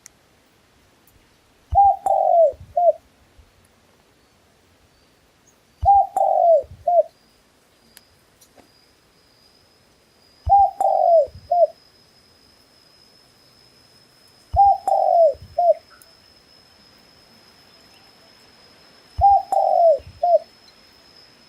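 A dove cooing: five phrases about four to five seconds apart, each a short note, a longer falling note and a short final note.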